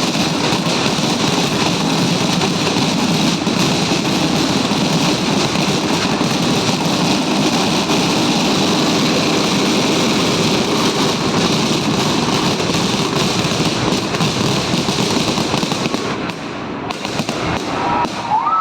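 Firecrackers and fireworks going off in a rapid, unbroken barrage, the bangs so close together they merge into one continuous crackle, thinning out near the end.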